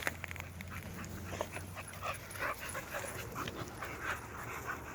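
A dog panting close by, with small irregular rustles and clicks as it moves about.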